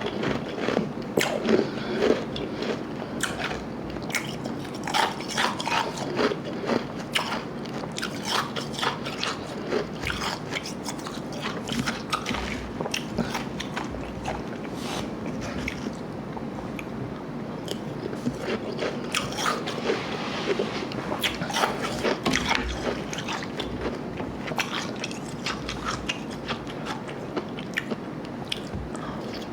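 Close-up crunching and chewing of slush ice and Igloo ice, with irregular crisp crunches all the way through.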